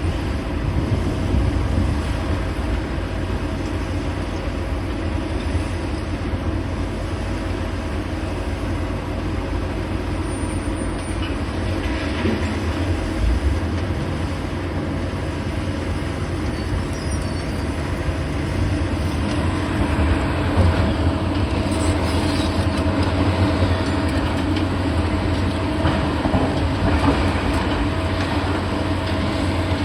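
Heavy demolition machinery running: a steady, loud diesel engine rumble with a held tone, with a few louder scraping, clattering moments in the second half.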